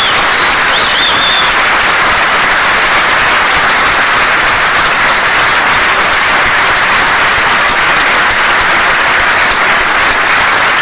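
Audience applauding, steady and loud throughout, with a short high whistle about a second in.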